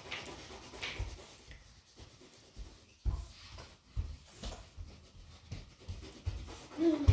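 Wax crayon rubbing back and forth on paper, pressed down firmly while colouring in, with soft low thuds from the drawing surface in between.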